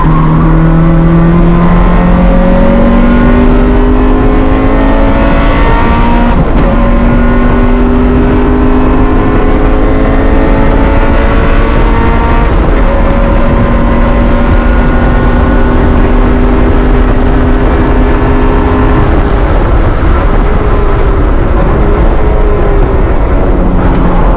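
Honda CRX's swapped B16A four-cylinder engine pulling hard on track: the revs climb, dip about four seconds in, then climb again in one long, slow pull before falling off near the end.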